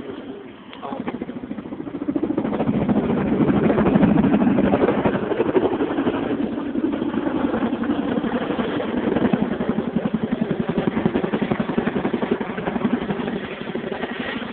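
Boeing CH-47 Chinook tandem-rotor helicopter in a display flypast, its rotor blades making a rapid, steady chopping that swells louder about two seconds in and then holds.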